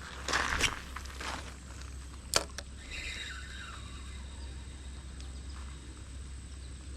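Rustling movement on the creek bank, a couple of short scuffs, then one sharp click about two and a half seconds in with a smaller one right after, over a steady low outdoor rumble.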